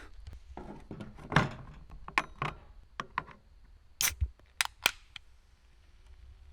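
A string of sharp clicks and knocks, roughly ten over the first five seconds, from small objects being handled and set down.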